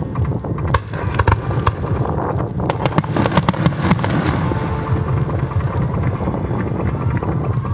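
Japanese aerial fireworks going off in quick succession: a dense, continuous rumble of booms with many sharp cracks, and a stretch of crackling shells near the middle.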